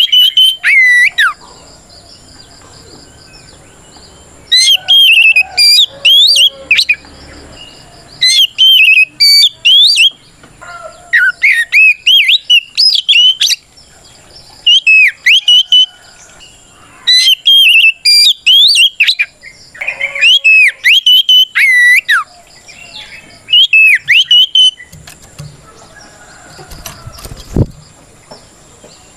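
Oriental magpie-robin (kacer) singing loud bouts of rapid, varied whistled phrases, each a few seconds long with short pauses between. This is full 'ngeplong' fighting song, the challenge call that goads a rival male into answering.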